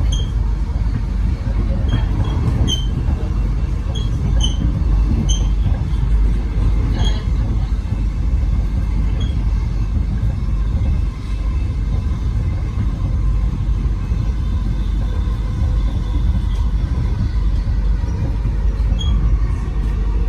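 Melbourne Metro electric suburban train running, a steady low rumble, with a few short high-pitched chirps in the first several seconds and once near the end.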